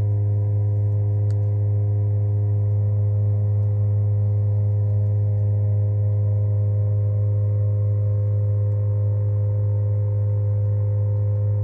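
Toyota Corolla Cross Hybrid's four-cylinder petrol engine running steadily just after a cold start, a loud, even, low drone that does not change.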